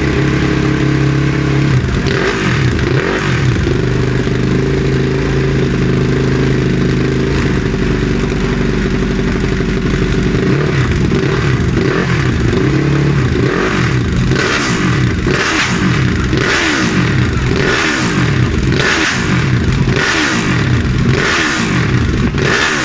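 Ducati 1299 Superleggera's V-twin engine idling briefly, then revved again and again, its pitch rising and falling. In the second half come quick throttle blips about once a second, each with crackling bangs from the exhaust.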